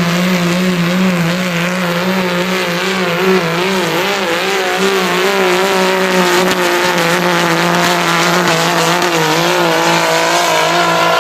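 2004 Dodge Ram's 5.9 Cummins straight-six turbodiesel at high revs under full load, pulling the weight sled, its pitch wavering up and down as the truck hooks and bounces down the track. It is working hard.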